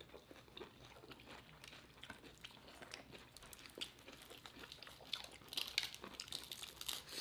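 Close-miked eating: chewing and biting with soft crunches and small wet mouth clicks, busier in the last couple of seconds.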